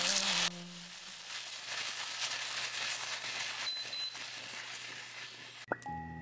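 Green beans and mushrooms sizzling as they stir-fry in a ceramic-coated pan, the sizzle dropping quieter about half a second in. Background music starts near the end.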